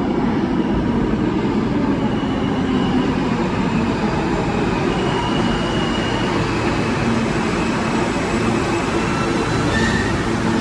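New York City subway L train running alongside the platform: a steady rumble of wheels and car noise with faint high-pitched tones in the middle. A low steady hum comes in near the end.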